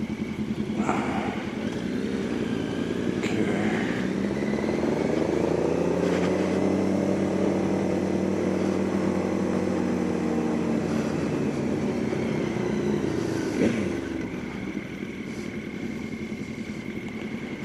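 Motorcycle engine heard while riding, with wind noise: its pitch rises over a few seconds as the bike accelerates, holds for several seconds, then drops off again near the end.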